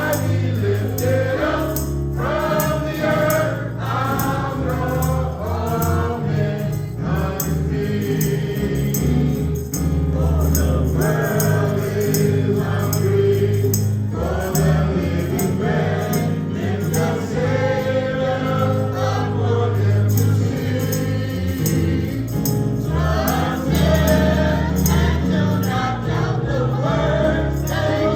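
A church congregation singing a gospel hymn together, with instrumental accompaniment holding low sustained notes and a steady percussion beat.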